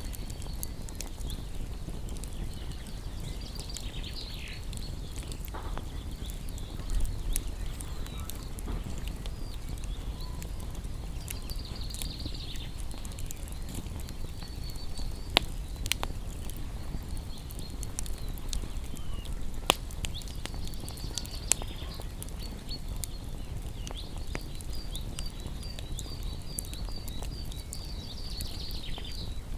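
Wood fire crackling with a few sharp pops, over a steady low hiss, while small birds chirp repeatedly in the background, with a quick run of chirps near the end.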